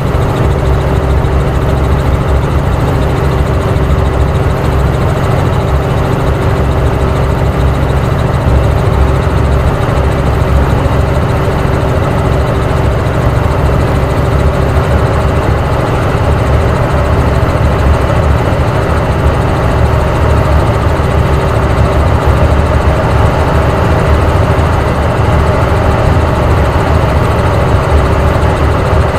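Helicopter engine and rotor running steadily: a loud, even rumble with a constant hum over it.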